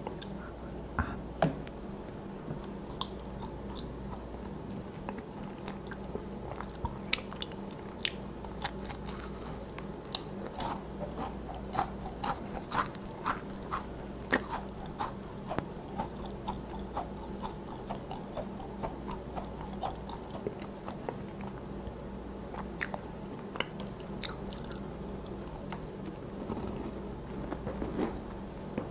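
A person chewing a macaron close to the microphone: the crisp shells crackle and crunch between the teeth. The crunching is densest in the first half and grows softer and sparser later.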